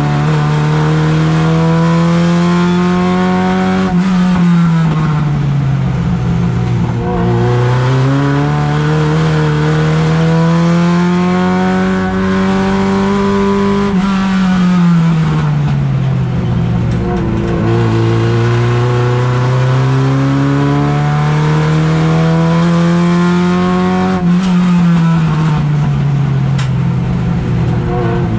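Race car engine heard from inside its stripped cabin, running hard under load. Its pitch climbs slowly along the straights and falls away as the car slows for the corners, about three times over.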